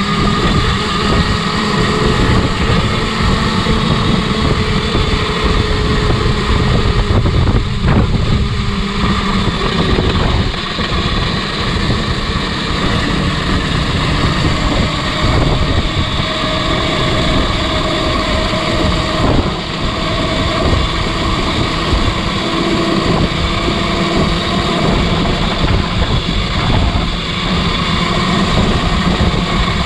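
Motorcycle being ridden, with heavy wind buffeting on the microphone over a steady running drone whose pitch shifts slowly.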